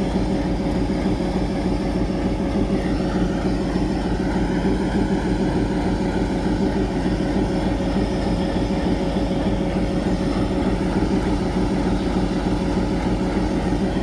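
ALCO diesel engine of a WDM-3D locomotive idling with a steady, even beat.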